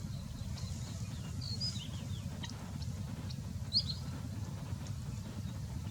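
A small bird chirps a few times in short, high notes, twice about a second and a half and three and a half seconds in, over a steady low rumble.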